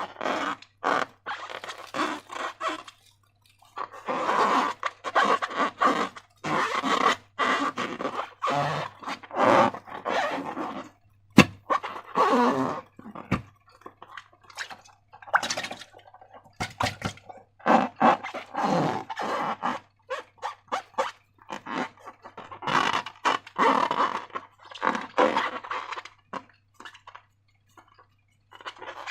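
Slime being handled and squished, making irregular crunching and squelching bursts with short pauses between them. One sharp snap stands out about a third of the way through.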